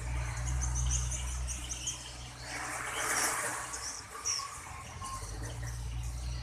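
Swiftlets chirping, many short high twitters one after another, over a steady low hum that fades out briefly in the middle.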